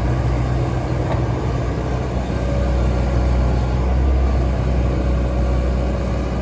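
Hitachi Zaxis hydraulic excavator's diesel engine running steadily with a deep, even hum, swelling slightly in the middle.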